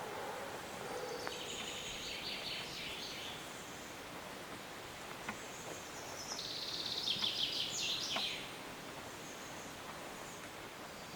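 Songbirds singing in a forest: a high phrase of quick notes starts about a second in, then a louder, longer phrase of rapid trilled notes comes in the middle, over a steady hiss of background noise.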